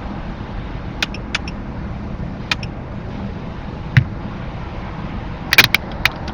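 Steady low rumble of a vehicle, with a few sharp clicks, a knock about four seconds in, and a quick cluster of sharp clicks and knocks near the end.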